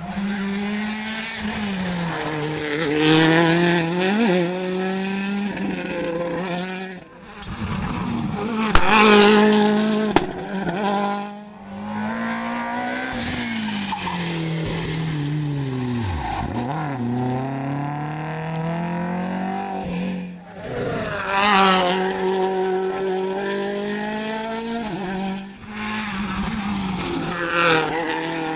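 Rally cars at full throttle on a special stage, passing one after another. The engine pitch climbs and drops through gear changes, and there are louder peaks as each car goes by.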